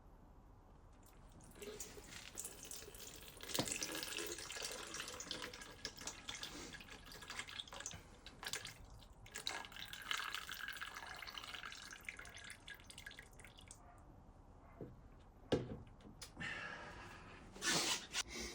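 Coolant trickling and dripping from the leaking water pump housing of a 1984 Honda CR250, faint and uneven, after the housing seal failed to hold. A few knocks near the end.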